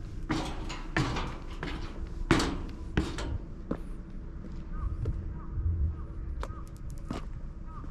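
Birds calling: several harsh, caw-like calls in the first few seconds, then a run of short repeated chirps.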